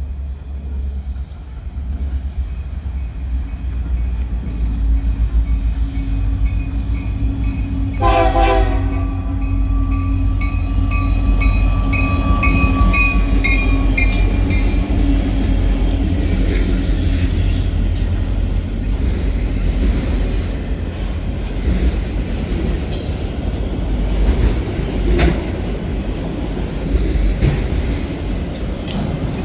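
A diesel-hauled train rumbling past. Its locomotive horn sounds about eight seconds in and holds for several seconds before fading. The rest is steady rolling noise from the cars, with some clickety-clack over the rail joints.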